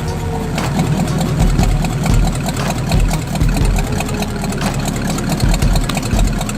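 A motor vehicle's engine idling, with sharp pulses at an uneven beat of about one every half second to second.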